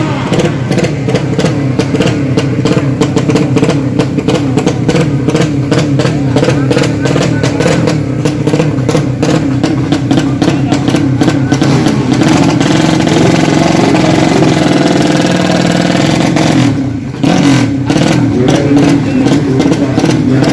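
Loud drag-racing motorcycle engine running hard. Its note climbs a little, then drops out for an instant about seventeen seconds in and picks up again at once.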